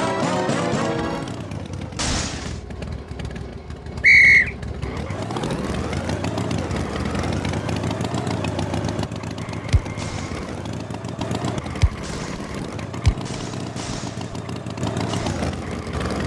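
Cartoon soundtrack of music mixed with a running engine sound effect. A loud, short whistle-like tone sounds about four seconds in, and a few short low thumps come later.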